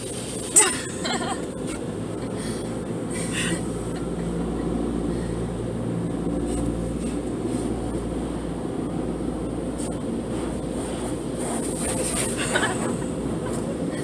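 Automatic car wash machinery running, heard from inside the car's cabin: a steady low rumble, a sharp knock about half a second in, and a few louder swishes of spray or brushes against the car.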